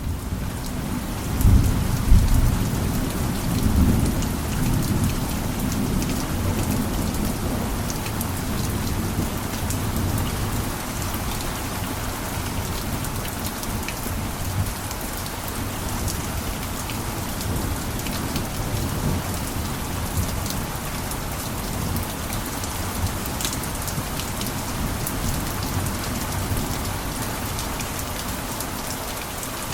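Steady heavy rain falling on a roof, with scattered sharp drop ticks over a continuous hiss and a low rumble that is strongest in the first few seconds.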